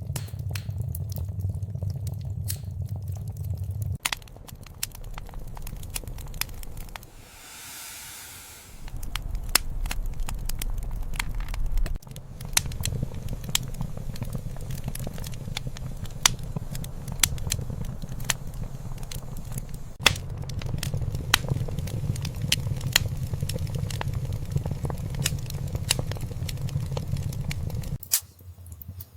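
Wood fire in a fireplace crackling, with frequent sharp pops and snaps over a steady low rumble of burning. About seven seconds in there is a soft hiss for a couple of seconds.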